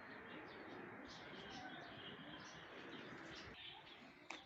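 Birds chirping faintly, many short high calls overlapping, over a steady background murmur. A single sharp click comes near the end.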